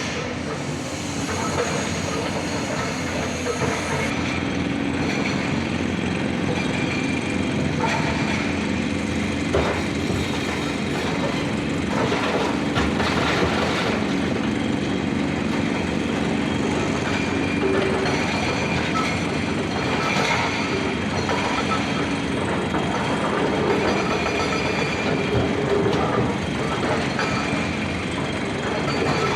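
A heavy truck runs continuously and loudly, with rattling, brief clunks and faint squeaks.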